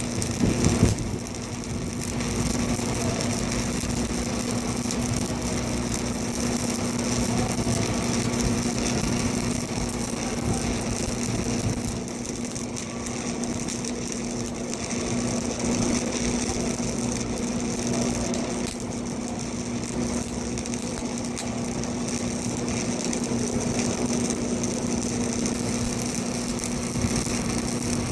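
Arc welding on a vertical joint: a steady crackling hiss over a constant hum, with a brief louder burst about a second in.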